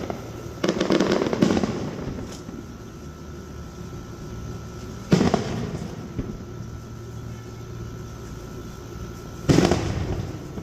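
Aerial fireworks bursting: a sharp bang, then a burst of crackling about a second in, and two more loud bangs, one about halfway through and one near the end, each trailing off in a rumbling echo.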